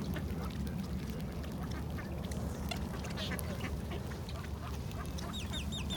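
A flock of ducks quacking and jostling around a person feeding them, with many short clicks throughout. Near the end a small bird gives a quick run of repeated high wavy calls.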